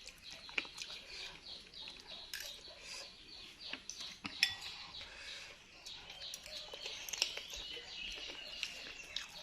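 Spoon and bowl clinking in scattered short clicks while eating bakso meatball soup.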